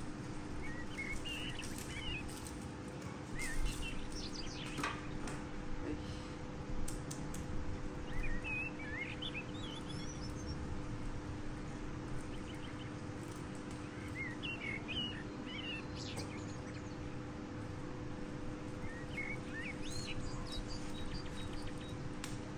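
Small birds chirping in short bursts every few seconds, over a steady low hum and a few faint clicks.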